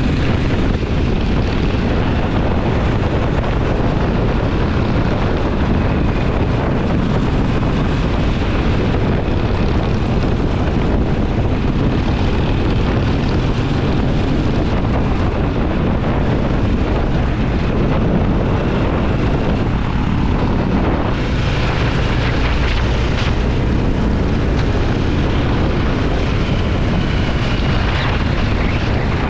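Twin-cylinder motorcycle engine running steadily at cruising speed, with wind buffeting the microphone. The wind hiss grows brighter about two-thirds of the way in.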